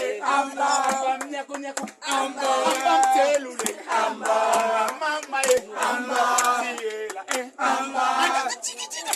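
A group of people singing and chanting together in sustained phrases, with sharp knocks heard among the voices.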